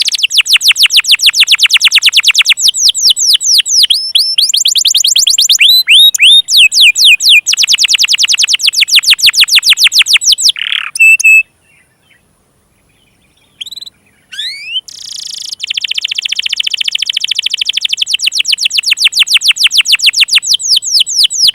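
Domestic canary song: long, rapid trills of repeated high notes, about ten a second, changing from one note type to the next. The song breaks off for about three seconds midway, with only a few short notes, then resumes. It is canary song of the kind played to prompt young or non-singing canaries to sing.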